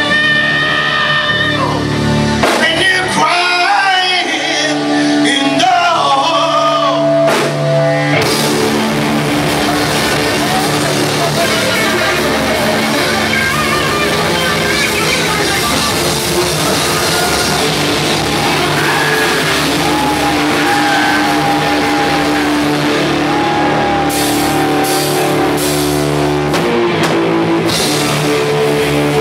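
Live rock band playing an instrumental stretch: drums, bass and electric guitars, with a wavering lead line over a thinner backing for the first several seconds before the full band comes in. The band stops short a few times near the end before carrying on.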